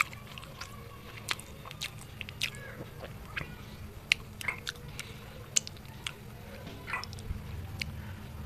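Close-up mouth sounds of a person eating by hand: chewing, wet lip smacks and sharp clicks from licking fingers, with a bite into a boiled egg near the end.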